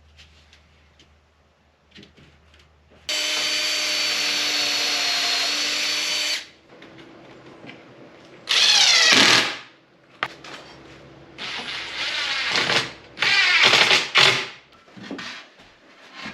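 Power drill driving screws in several runs: one steady run of about three seconds, then shorter runs whose pitch sweeps as the motor speeds up and bogs, with small knocks of handling between.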